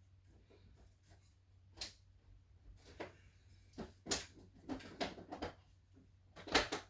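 Irregular clicks, knocks and rustling as parts are handled while a 3D printer is being assembled, with a few sharper knocks about 2, 4 and 6.5 seconds in.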